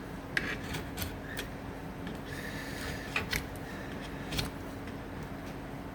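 Hand tool working a small piece of acacia wood: a few sharp clicks and ticks at irregular spacing, with one brief scraping stroke around the middle, over a low steady hum.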